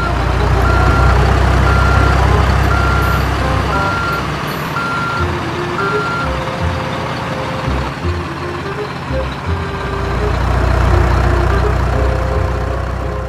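Heavy truck engine rumble with a reversing alarm beeping about once a second for the first six seconds. The rumble turns choppy in the middle and swells again near the end.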